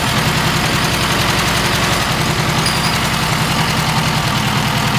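Engine from a ZAZ car, removed from the car, running steadily at an even speed.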